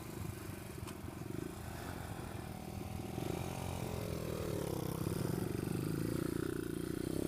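Pit bike engine running, its note rising and falling with the throttle and getting louder from about halfway through.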